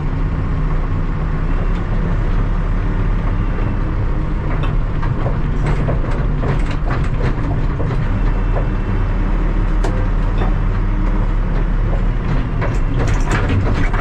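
Terex TLB-815 backhoe loader's diesel engine running steadily, with scattered knocks and rattles from the machine.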